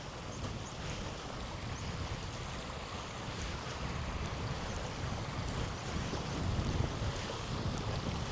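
A river flowing: a steady rush of water, with low wind noise on the microphone.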